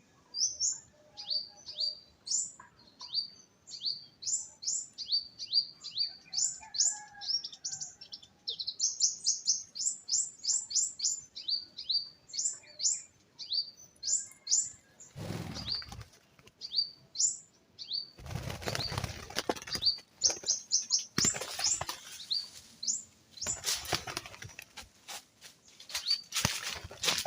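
Small bird chirping rapidly: quick, high, downward-sweeping chirps, several a second. After about fifteen seconds the chirps thin out among repeated bursts of rustling noise.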